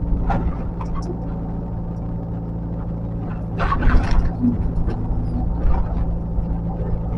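Diesel engine of a heavy earthmoving machine running steadily, with a cluster of metallic knocks about halfway through and a brief squeal just after.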